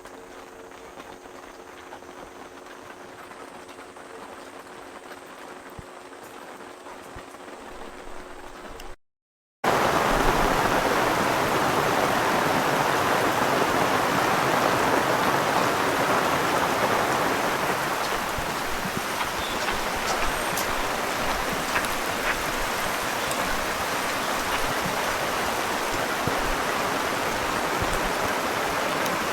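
Steady heavy rain falling, starting abruptly about a third of the way in after a brief dropout; before that, a much quieter stretch with a faint steady hum.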